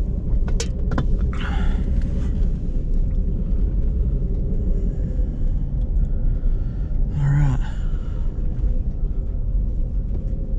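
Steady low engine and road rumble of a vehicle being driven, heard from inside the cab. A few sharp clicks come in the first second, and two short, louder noisy bursts come about a second and a half in and about seven seconds in.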